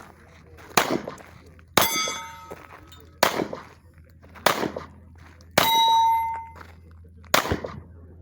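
Six pistol shots spaced one to two seconds apart; two of them are followed by the ring of a struck steel target, the second ringing for most of a second.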